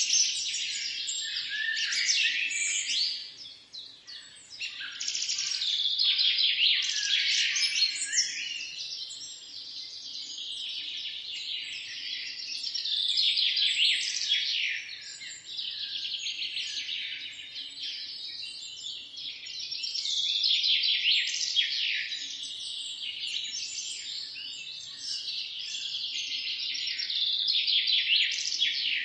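Many songbirds chirping and singing at once in a dense, overlapping chorus of quick high chirps and trills that swells and eases every few seconds.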